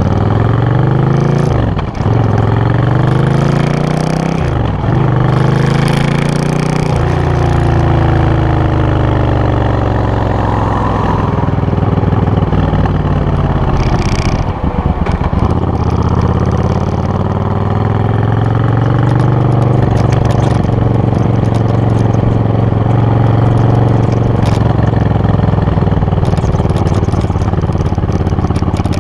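Suzuki VS800 Intruder's V-twin engine running loudly through its exhaust, its pitch falling and rising again several times, with sharp dips about two, five and fifteen seconds in.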